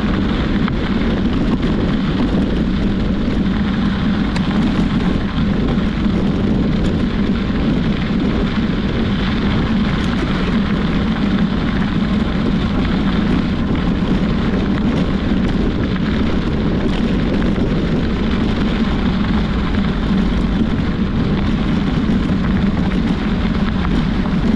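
Steady wind and road rumble from riding a bicycle along a road, with wind buffeting the microphone; it runs evenly with no breaks.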